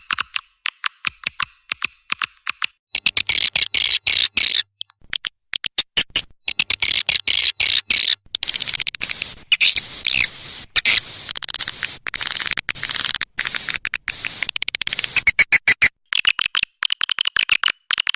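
Swiftlet calls played as a lure recording: fast runs of sharp chirps and clicking twitters in dense overlapping bursts, broken by abrupt cuts between spliced sections.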